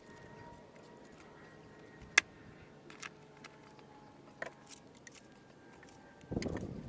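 Scattered sharp clicks and light knocks of stonework, stones and tools tapping, over a faint hiss, with one loud click about two seconds in and louder scraping and rustling starting near the end.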